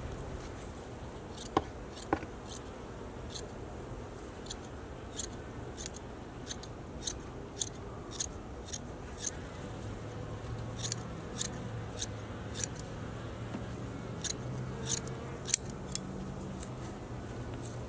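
Scissors snipping repeatedly: a series of short, sharp cuts at roughly one to two a second.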